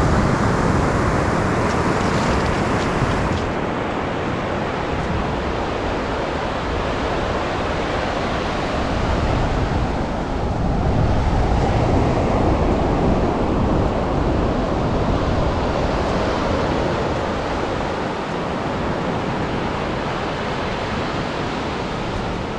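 Atlantic surf breaking and washing ashore, a steady rush that swells louder near the start and again about halfway through, with wind rumbling on the microphone.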